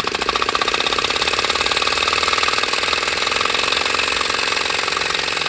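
Prototype rack-and-pinion piston engine running on compressed air, making a fast, even mechanical clatter that grows a little louder over the first couple of seconds as more air pressure is fed in, then holds steady.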